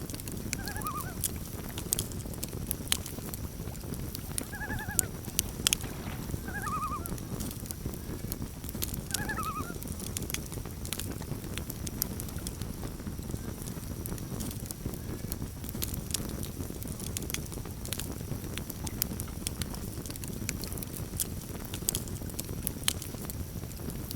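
Campfire burning with a steady low rush and frequent sharp crackles and pops. A bird gives short calls four times in the first ten seconds.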